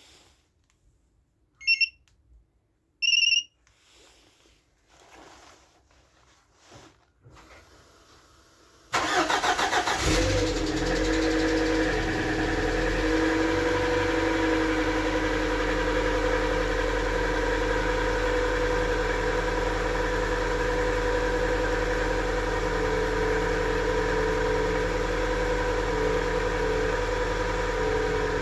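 Two short electronic beeps and a few faint clicks. About nine seconds in, the Lada Vesta's engine starts and settles into a steady idle at the start of its warm-up.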